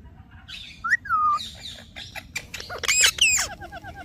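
Parrot calling: about a second in, a short rising whistle then a falling whistled note, followed near the end by a run of loud, harsh squawks.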